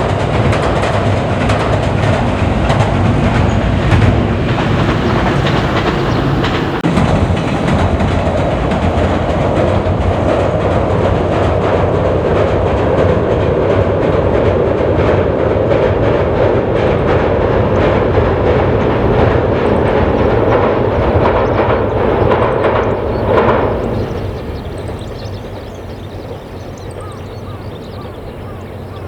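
A passenger train running past on the Fukuhoku Yutaka Line, its wheels clicking rhythmically over the rail joints over a steady rumble. It passes and fades quickly about 24 seconds in.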